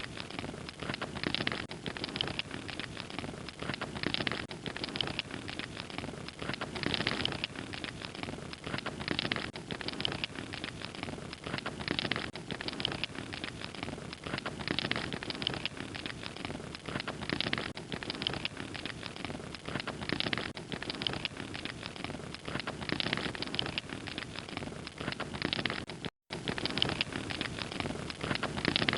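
Log fire crackling and popping steadily, a dense stream of small snaps over a soft hiss. The sound cuts out for a split second near the end.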